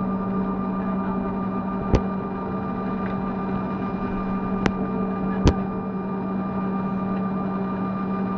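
Steady airliner cabin hum after landing, a strong low drone with fainter steady tones over an even rush of air. Three sharp clicks stand out, about two seconds in and twice more a little past halfway.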